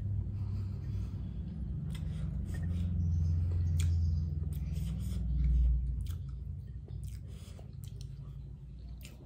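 Close-miked eating sounds: chewing and finger-licking, with many small wet mouth clicks scattered through and a low rumble that swells midway, loudest about five and a half seconds in.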